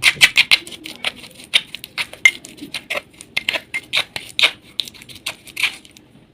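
Dry baked clay crunching and crumbling: a dense, irregular run of sharp crackles and snaps that stops about six seconds in.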